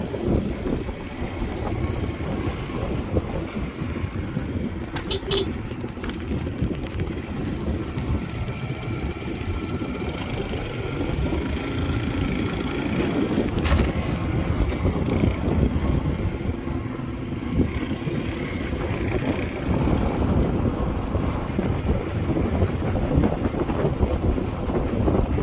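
Motorbike running along the road, with wind rumbling on the microphone and a faint engine drone. Sharp clicks come about five seconds in and again near the middle.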